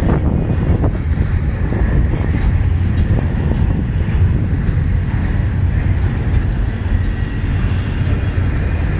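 Freight train of double-stack intermodal well cars rolling past close by, a steady rumble of steel wheels on rail.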